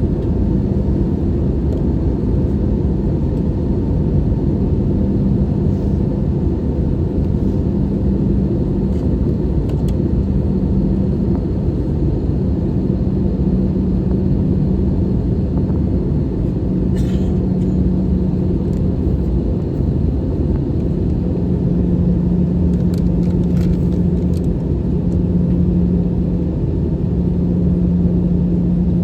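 Steady cabin noise inside an Airbus A320-214 with its CFM56 engines running: an even low rumble with a constant hum underneath. A few faint clicks come partway through.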